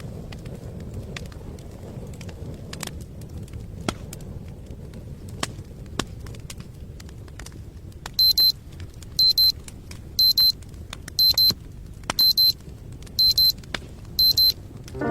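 Electronic alarm beeping: a high-pitched double beep repeated about once a second, seven times, starting about eight seconds in. Under it runs a low steady rumble with scattered light clicks.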